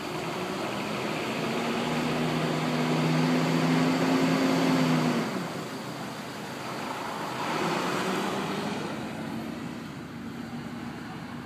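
Fire engine driving past on a turnout, its engine note building and then dropping away about five seconds in. A second vehicle swells past around eight seconds.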